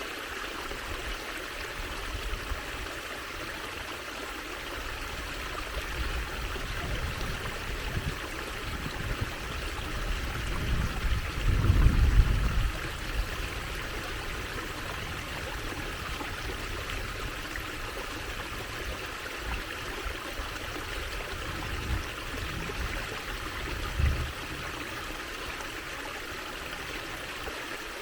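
Water trickling and running steadily, as in a small stream. A louder low rumble rises and fades about twelve seconds in, and a brief low thump comes near the end.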